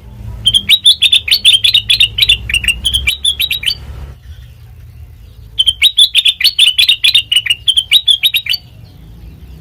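Kutilang mas bulbul singing two rapid runs of sharp chirping notes, each about three seconds long, with a pause of about two seconds between them.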